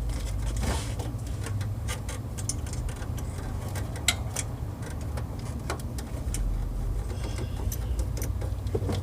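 Hand socket ratchet clicking in short, irregular runs, with scattered metal clinks, as a stud is worked out behind a Pontiac G8 alternator. A steady low rumble sits underneath.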